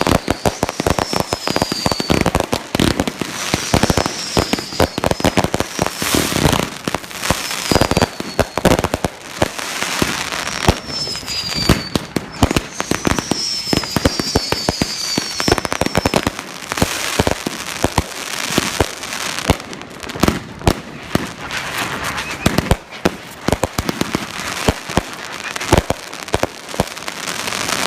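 Fireworks going off in a dense, continuous barrage of bangs and crackles. Through the first half come short, high whistles that fall in pitch.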